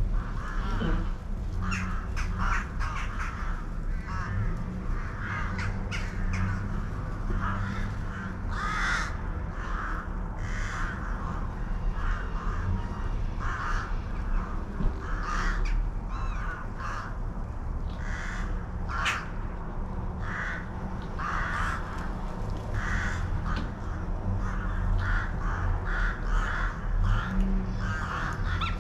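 Birds calling over and over, many short calls following one another, over a steady low rumble.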